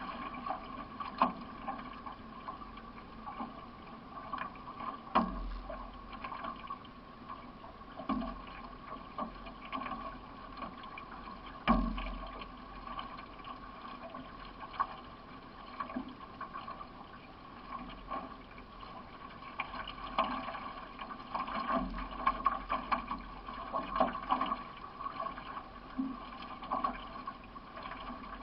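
Racing canoe under way, paddled by one paddler: paddle strokes and water washing along the hull, with irregular sharp knocks from the boat.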